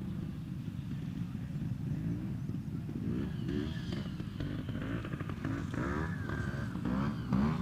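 Trials motorcycle engine running at low revs, then blipped in a series of short rising revs from about halfway through, the loudest near the end, as the rider works the bike through a section.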